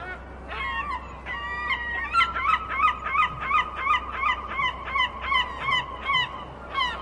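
Seagull calling: two drawn-out cries, then a fast series of short yelping calls at about three a second, and one more cry near the end.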